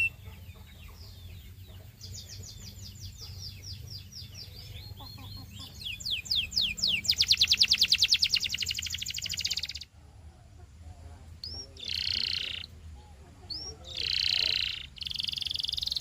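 Domestic canary singing in rolling trills: runs of rapid repeated high notes speed up into a very fast, loud trill for about three seconds and break off abruptly. After that come shorter, dense buzzy phrases.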